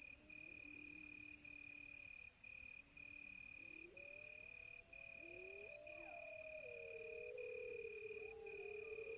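Crickets chirping in a steady high trill broken by brief gaps, with several wolves howling far off: overlapping long gliding howls that swell from about four seconds in.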